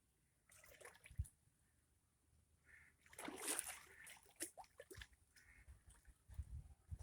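River water splashing and trickling in irregular bursts around a PVC pipe catamaran kayak, with a sharp low thump about a second in.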